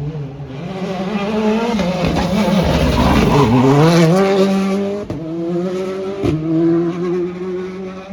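Rally car engine passing at close range at full throttle. Its note climbs, drops about three seconds in, where it is loudest, then climbs again and holds, with a couple of sharp cracks around five and six seconds in.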